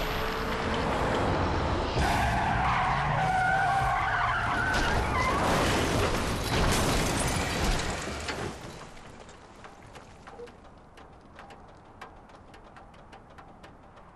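A car skidding with its tyres squealing, then several heavy impacts of a crash. After about eight and a half seconds the noise dies away, leaving faint scattered ticks and clicks.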